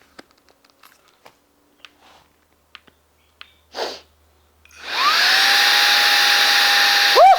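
A few faint clicks, then about two-thirds of the way in the Saker 3-in-1 cordless handheld vacuum's motor starts up, its whine rising in pitch and settling into a steady, loud rush of air as it runs in blower mode.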